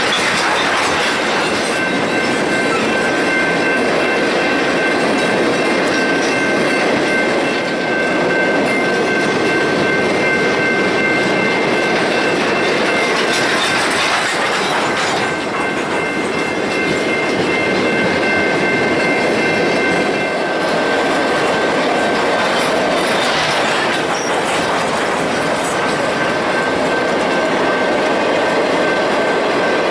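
Freight train cars rolling past on steel wheels: a steady rumble with rail clatter, and a high-pitched wheel squeal of a few steady tones through most of it that thins out about two-thirds of the way in and fades near the end.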